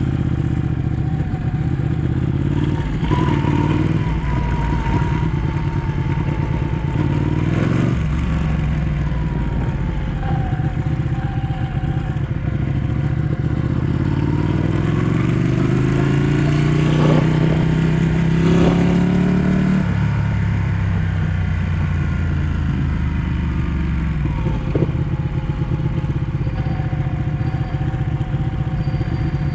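Ducati 1199 S V-twin engine running under way, the revs rising and falling with the throttle. About halfway through it revs up in one long steady climb, then drops off suddenly.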